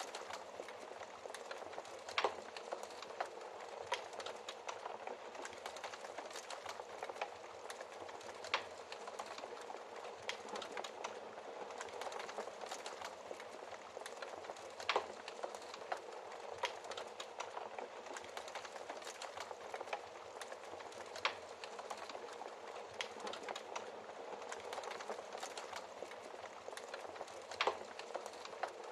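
Wood fire burning in a fireplace: a steady hiss and flutter of flames with scattered sharp crackles and pops every second or so, a few louder snaps standing out.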